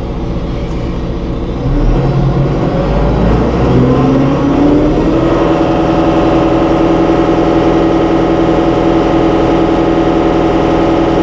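2016 John Deere 5100E tractor's four-cylinder turbo diesel running, heard from inside the closed cab. It idles at first, then about two seconds in the engine speed rises smoothly over a few seconds and settles at a steady, higher speed.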